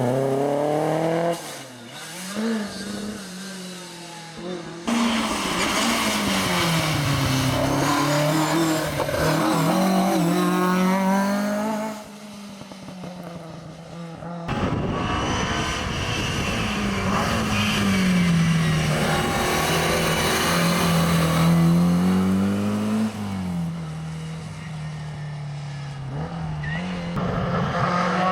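Historic rally cars on an asphalt special stage, passing one after another with abrupt cuts between clips. The engine pitch falls as they brake and shift down, then climbs again as they accelerate away.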